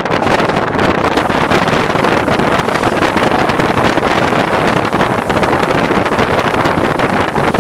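Steady rushing noise of a Class S11 DEMU train under way, heard from the cab, with wind buffeting the microphone.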